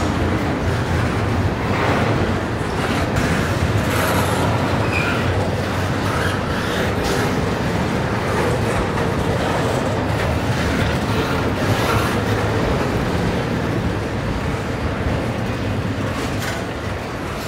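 Double-stack intermodal container train rolling past: a steady rumble of steel wheels on rail from the loaded well cars, with irregular clicks of wheels over rail joints.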